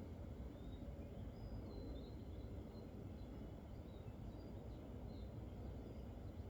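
Birds chirping faintly, short high calls scattered throughout, over a steady low background rumble.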